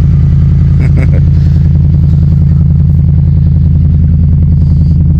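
Truck engine idling steadily, freshly jump-started after its nearly four-year-old battery went dead in a cold night.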